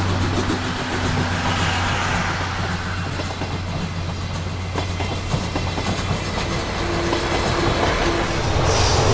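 Test train of the restored C11 123 steam locomotive running on the rails: a steady low rumble with wheel clatter, getting louder near the end.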